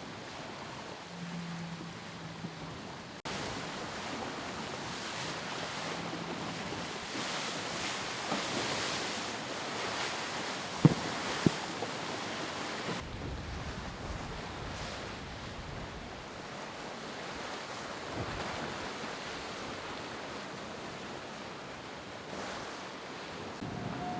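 Wind and sea water rushing past a racing yacht under sail, with wind buffeting the microphone. Two sharp knocks come about eleven seconds in.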